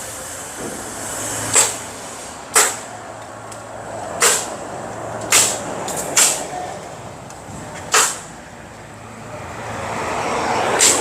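Pneumatic framing nail guns firing at irregular intervals, each shot a short sharp pop with a hiss of air, over a steady background hum.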